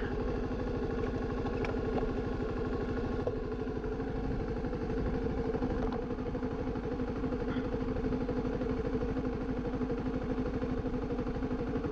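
Kawasaki KLX250SF supermoto's single-cylinder engine idling steadily.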